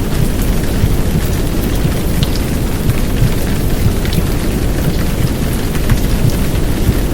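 Heavy downpour of rain, a steady dense hiss with scattered drop ticks, over a deep low rumble from a womb-sound track mixed in as a sleep aid for babies.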